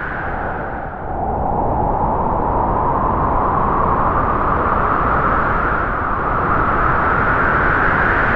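Strong wind howling through trees: a steady rush with a whistling howl that drops in pitch about a second in and then slowly rises again.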